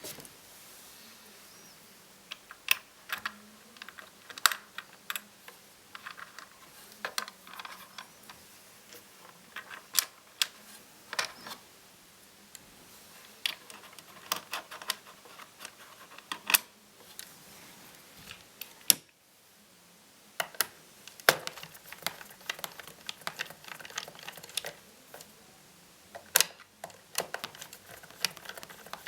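Laptop parts being handled and worked on by hand: irregular sharp clicks and taps, at times several a second, with a short pause a little past the middle.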